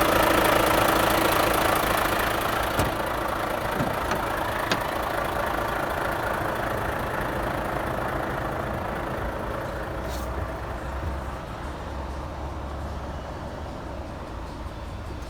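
Volvo FH500 truck's 13-litre straight-six diesel engine running steadily, slowly growing fainter.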